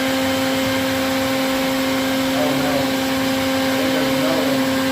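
Vacuum motor running steadily, a constant, even hum with no change in pitch.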